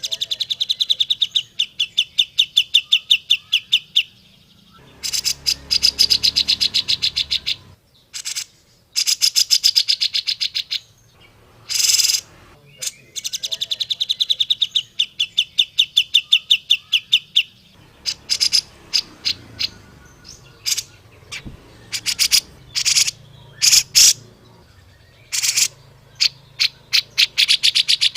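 Cucak jenggot (grey-cheeked bulbul) singing: long runs of fast repeated chattering notes lasting a few seconds each, broken by short sharp single notes.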